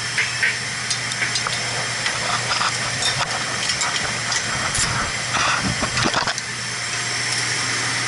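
Metal parts and hand tools clinking and knocking as a boiler's burner assembly is taken apart, with a cluster of knocks and rattles about five to six seconds in. Under it runs a steady low hum and hiss.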